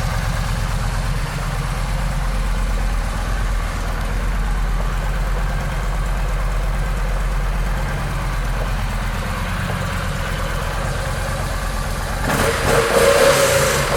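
2012 Yamaha V-Star 950's air-cooled V-twin engine idling steadily, with a louder, rougher stretch about twelve seconds in.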